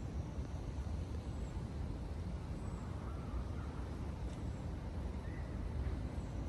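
Snowstorm wind rumbling steadily and buffeting the microphone, with a few faint short chirps about halfway through.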